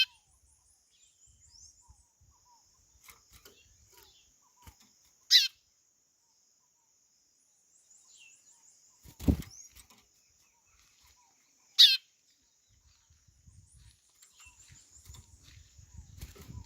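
White-bellied seedeater (chorão) giving short, sharp calls that slide downward in pitch, three of them about six seconds apart, over a steady thin high-pitched drone and faint twitters. A dull thump comes about nine seconds in.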